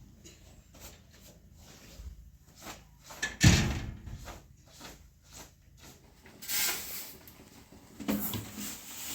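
Small knocks and clatter, with one loud thump about three and a half seconds in and two shorter noisy bursts near the end, like a door or lid being shut.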